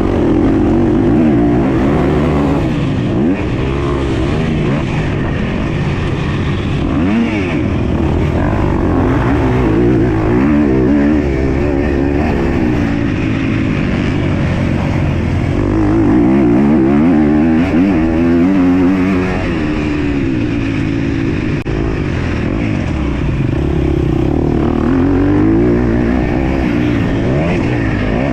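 MX2 motocross dirt bike engine racing, its pitch repeatedly rising and falling as the rider works the throttle and shifts gears.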